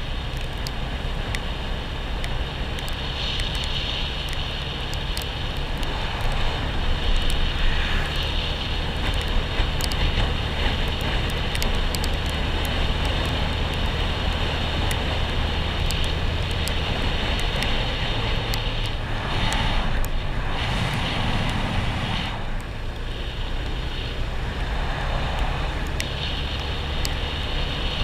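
A motor vehicle driving, its engine running steadily under a rushing road and wind noise, with scattered clicks and knocks throughout.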